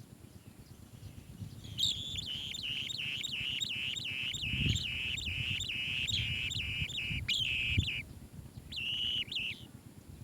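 Asian green bee-eater calling in a fast run of short, repeated chirps, about three a second, for several seconds, then a shorter run near the end.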